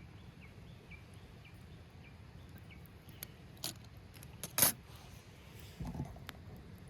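A few sharp metallic clinks, the loudest about four and a half seconds in, followed by a duller knock near six seconds, as camp cooking gear is handled.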